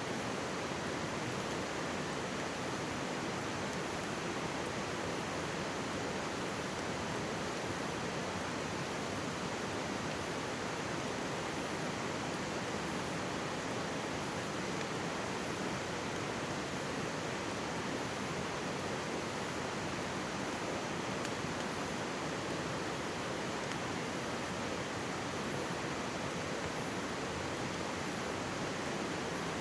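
Mountain stream rushing steadily over rocks, an even unbroken water noise.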